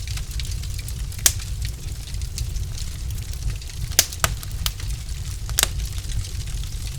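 Wood fire crackling in a fireplace: a steady low rumble from the burning logs with scattered sharp pops and snaps, several of them close together around four to five seconds in.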